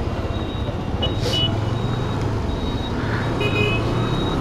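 A TVS Apache RTR 160's single-cylinder engine running at a steady cruising speed, heard with wind and road noise. Two short high-pitched beeps sound briefly, about a second in and again about three and a half seconds in.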